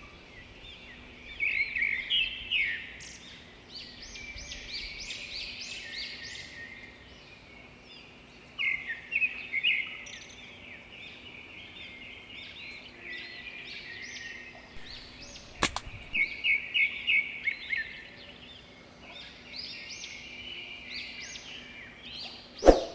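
Small birds chirping and calling in busy clusters of quick, high chirps. Two sharp snaps cut through it, one past the middle and a louder one near the end.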